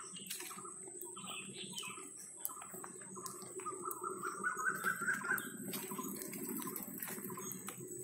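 Birds chirping and calling among the trees, with a run of quick notes climbing in pitch between about four and five and a half seconds in, over a steady thin high tone.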